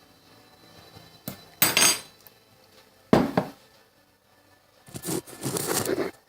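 A spoon stirring cake mix with water, scraping and clinking against its container in three short bursts.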